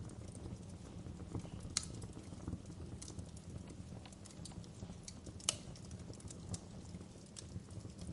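Wood fire crackling in a fireplace: a steady low rumble of flames with scattered sharp pops and snaps, the loudest two about two seconds in and about five and a half seconds in.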